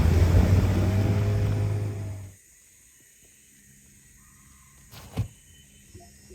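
Small boat's outboard motor running steadily with a low hum, cutting off abruptly a little over two seconds in. A single sharp knock follows about five seconds in.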